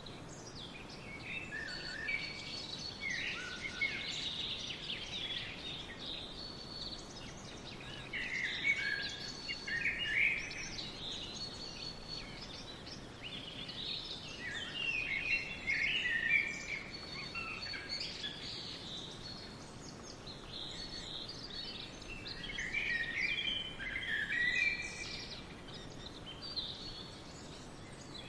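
Several songbirds chirping and trilling in a forest, in overlapping bursts over a faint steady background hiss.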